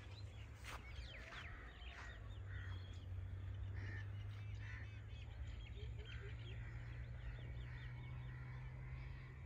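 Birds chirping and calling in many short, quick notes, over a steady low hum.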